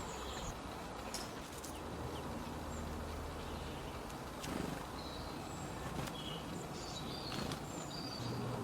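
Small birds giving scattered short, high chirps over a steady outdoor hiss, with a few faint clicks and a low hum that comes and goes.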